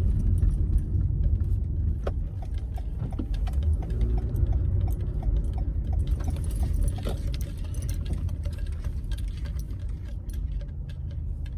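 A car's low road rumble heard from inside the cabin at low speed, growing somewhat quieter, with light clicking and rattling over it.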